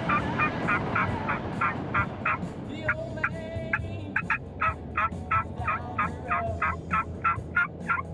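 Turkey calling: a rapid, even run of short clucking notes, about four a second, broken about three seconds in by a longer drawn-out call.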